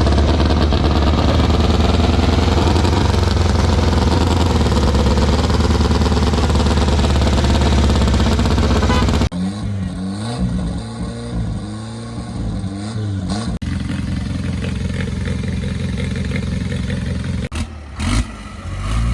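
Racing car engines at a hillclimb in several short clips cut together: a loud, steady engine running hard for about nine seconds, then, after abrupt cuts, engines revving up and down in throttle blips.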